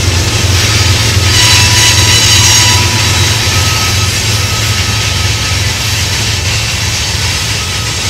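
A GE AC44CW diesel-electric freight locomotive, with its 16-cylinder engine, running as it passes close by: a steady low engine rumble with a rushing hiss that is strongest about two seconds in. The sound then eases as covered hopper cars roll past behind it.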